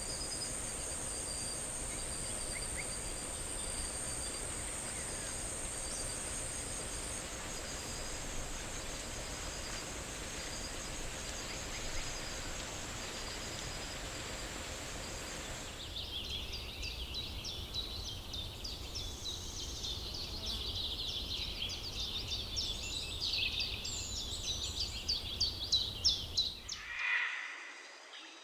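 Tropical forest ambience: a steady high-pitched insect drone with a faint note repeating about once a second. About halfway through it gives way to a dense chatter of rapid high chirps from insects and birds, which ends abruptly near the end.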